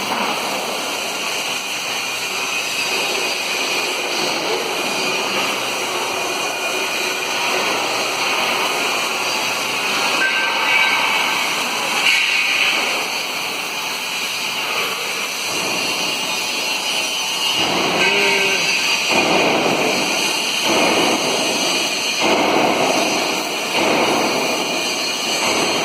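Steady hissing rush of an oxy-acetylene torch flame with factory noise behind it, swelling and easing several times in the second half.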